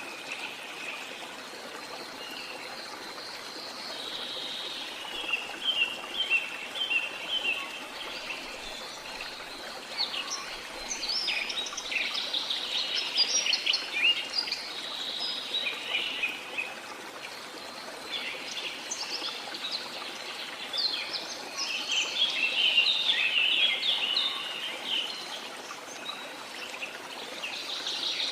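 Small songbirds chirping and trilling in repeated bursts over a steady wash of water from the sea.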